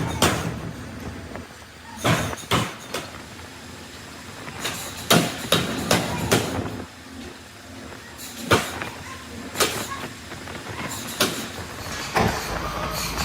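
Sharp metal knocks, some single and some in quick runs of two to four, with quieter gaps between.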